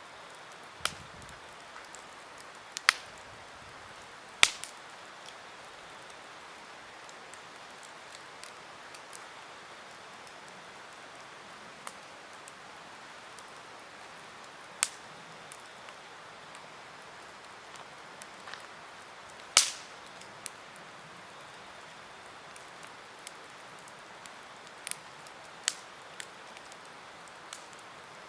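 Campfire crackling: a faint steady hiss of burning with irregular sharp pops of burning wood, the loudest about 3, 4.5 and 19.5 seconds in.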